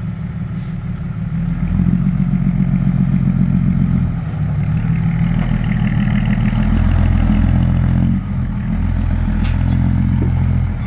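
Heavy diesel engine running loud and steady under changing load, rising about two seconds in and easing off briefly twice, with a faint whine over it in the middle.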